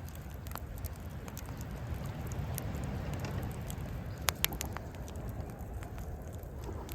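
Wood campfire crackling, with scattered sharp pops, two louder ones a little past the middle, over a steady low rumble.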